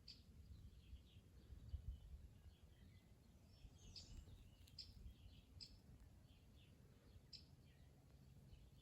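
Faint birdsong: short high chirps and twitters coming every second or so, over a low steady background rumble.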